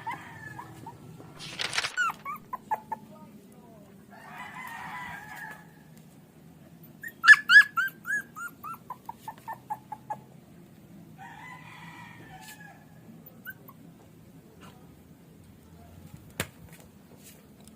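A puppy's high yelps and whimpers, including a quick run of short cries falling in pitch, with a rooster crowing twice in the background.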